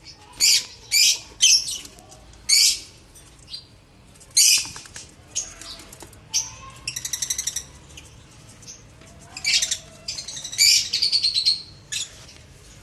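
Lovebirds calling: a series of sharp, shrill chirps, with two bursts of rapid chattering trills about seven and eleven seconds in.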